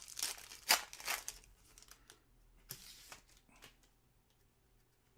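Trading-card pack wrapper crinkling and tearing as a pack is ripped open, loudest in the first second and a half, with a shorter rustle about three seconds in.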